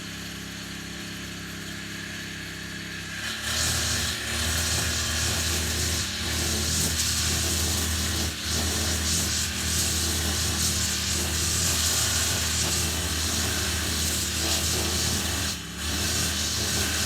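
Petrol grass cutter (brush cutter) engine running steadily at low throttle, then opened up about three seconds in to full speed as it cuts weeds, easing off briefly twice.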